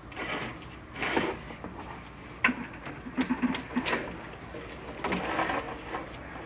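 Chimney inspection camera scraping and knocking against the flue liner as it is lowered down the chimney: a few rough scrapes, with a cluster of sharp clicks and knocks in the middle.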